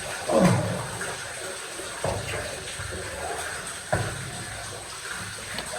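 Steady rush of running water echoing in a cave passage, broken by a short knock or splash about every two seconds.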